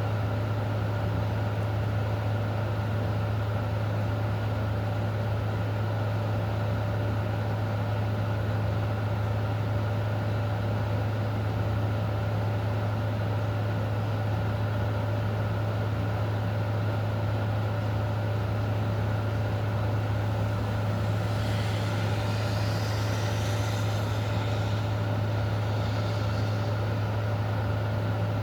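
A steady low mechanical hum with a faint hiss and a couple of thin steady tones above it, unchanging throughout. Some faint higher-pitched chirps come in about two-thirds of the way through.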